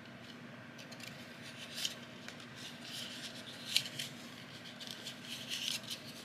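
Paper being folded and creased by hand, heard as faint crinkling and small crackling ticks, with the sharpest ticks about two seconds and four seconds in.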